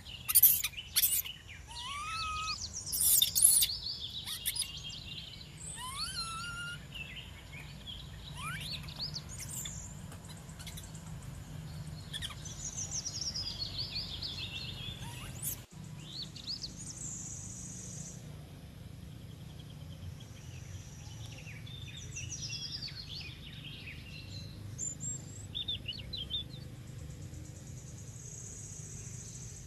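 Birds chirping and whistling in short rising and falling calls over a steady low background hum, with a few sharp loud clicks in the first few seconds.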